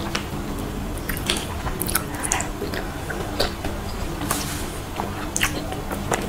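Close-miked mouth sounds of eating soft, creamy durian flesh: wet, squishy chewing with irregular lip smacks and clicks.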